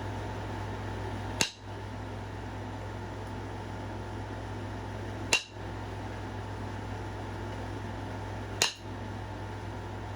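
Three sharp clicks a few seconds apart: a stone point being flintknapped, each strike knocking at the edge to take off a flake. A steady background hum runs underneath.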